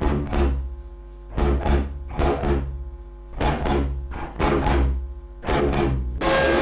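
Experimental noise music on electric guitar: harsh noisy strikes about once a second, with low droning tones ringing on between them. Near the end the strikes give way to a continuous dense wall of noise.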